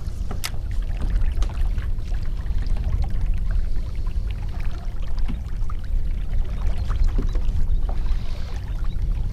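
Water sloshing and splashing against a kayak's hull, many small splashes over a steady low rumble.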